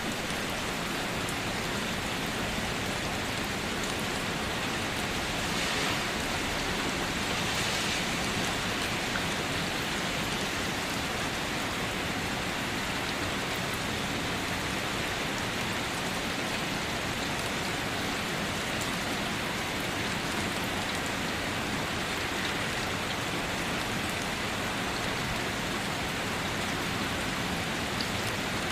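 Steady rain falling, with drops pattering on surfaces, a continuous even hiss with no thunder.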